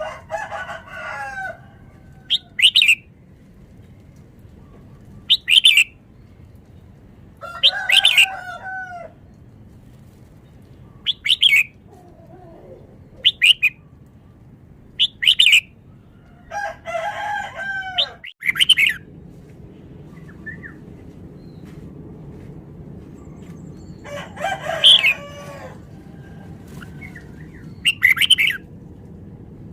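Red-whiskered bulbul singing: short, bright song phrases every two to three seconds. Longer, fuller warbling phrases come in four times.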